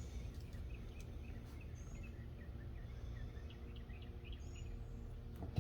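Quiet background ambience: a steady low hum with faint, scattered high chirps like distant birds.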